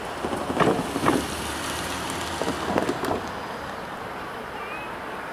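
Wind rushing across the microphone, with four short, louder buffets in the first three seconds.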